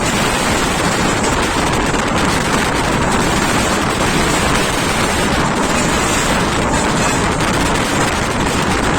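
A train running at full speed: a loud, steady rush of wind on the microphone and the noise of wheels on the track.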